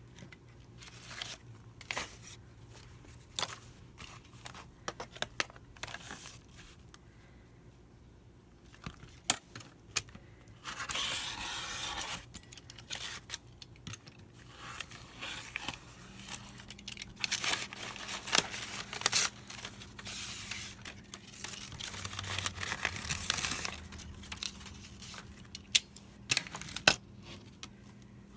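Sheets of paper being handled and torn on a work table: irregular rustling and tearing with small taps and clicks, one longer tear about eleven seconds in and busier handling in the second half.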